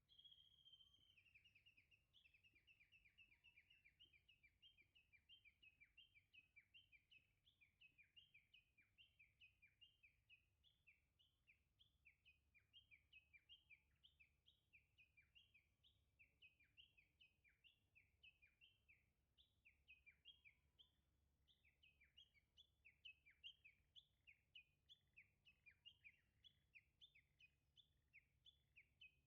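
Faint birdsong: a bird's long, rapid series of short, high, repeated chirps, about three or four a second, that starts abruptly and keeps up without a break.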